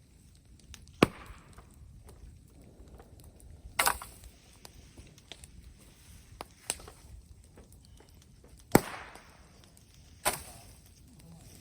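Sharp cracks of wood at a bonfire: about five separate snaps, one about a second in, a double one near four seconds, a small one near seven seconds, and two loud ones late on.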